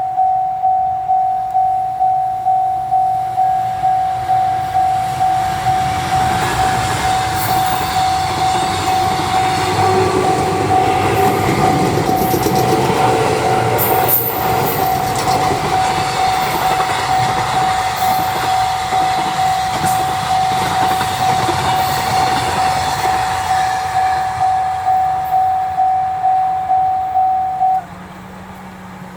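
Railway level-crossing alarm ringing with an even, repeating ding while a train passes over the crossing, its wheels clacking over the rail joints. The alarm stops suddenly near the end.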